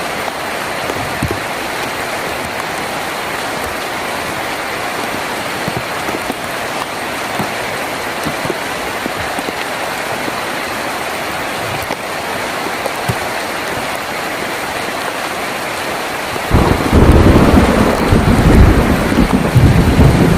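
Heavy rain drumming steadily on a tin roof, with scattered louder drop ticks. About three-quarters of the way through, a sudden loud low rumble of thunder sets in and goes on to the end, the loudest thing here.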